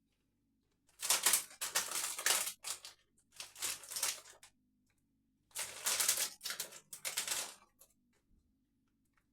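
Potato crisps being crunched between the teeth while chewing, in three spells of rapid crackling a second or two long with short pauses between.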